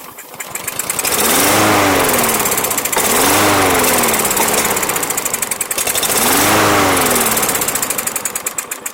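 Briggs & Stratton lawn mower engine running unevenly, its speed rising and falling back three times. The owner blames a dirty carburetor that Seafoam has not cured and that needs cleaning.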